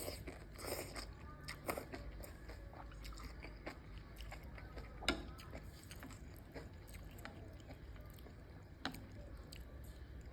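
A person chewing enoki mushrooms close to the microphone: soft, wet mouth sounds and irregular small clicks, with a sharper click about five seconds in.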